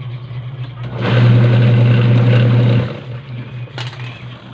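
Washing machine motor humming, then running much louder for about two seconds from a second in before easing back to a hum.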